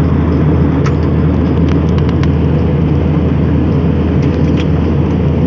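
Steady, loud low rumble of an airliner's jet engines and airflow, heard inside the passenger cabin, with a few faint clicks and rattles.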